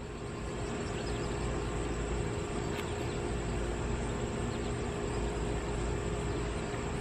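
Steady background noise with a low hum and a faint, constant high tone, unchanging throughout.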